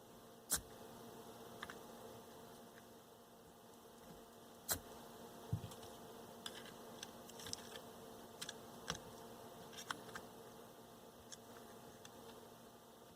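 Scattered sharp clicks and taps of small hand tools while desoldering capacitors from a transistor radio's circuit board, the loudest about half a second in and just before 5 s. Under them runs a steady faint hum.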